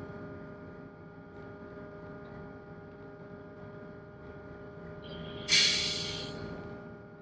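Single-screw tugboat's diesel engine running steadily, heard as a hum with several steady tones. Late on, a sudden loud hiss breaks in and fades away over about a second.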